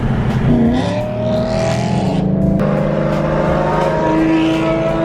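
Car engine running steadily, its pitch rising gently a little over a second in as it is revved or pulls away.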